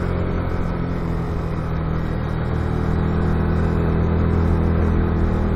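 Motorcycle engine running steadily under load as it climbs an uphill road. It gets slightly louder toward the end.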